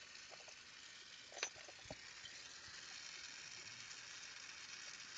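Faint steady hiss of a Carlisle glassworking torch flame, with a couple of small clicks about one and a half and two seconds in.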